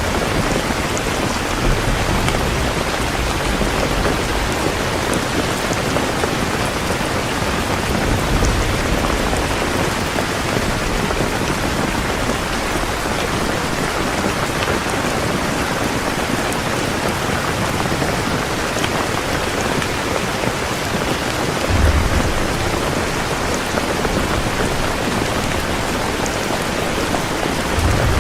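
Heavy rain falling steadily, a dense even hiss, with low rumbles of distant thunder now and then, one about three-quarters of the way through.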